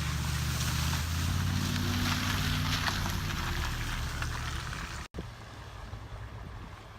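A vehicle engine running steadily under a loud, even hiss of rain and water during storm flooding. After about five seconds the sound cuts out abruptly, and a quieter hiss of wind and water follows.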